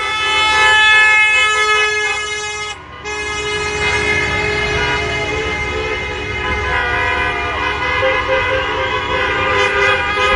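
Several vehicle horns blowing at once in long, overlapping blasts. They break off briefly about three seconds in, and a low engine rumble comes in after that.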